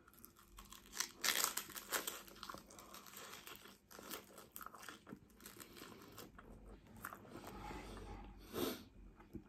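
Close crunching and chewing of a prawn cracker topped with sweet and sour food. The crisp cracks are densest and loudest between about one and two and a half seconds in, then give way to softer, scattered chewing.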